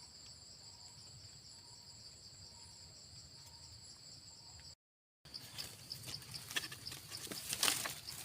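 Steady high-pitched chorus of insects trilling in a forest. It cuts off abruptly a little under five seconds in. Then comes a pulsing high insect call at about three pulses a second, with rustling and light knocks.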